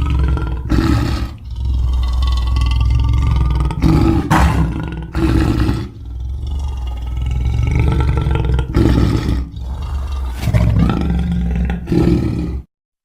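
Custom sound-effect creature roars and growls for King Shark, the shark-man monster: a run of deep, rumbling roars with short breaks between them, cutting off suddenly near the end.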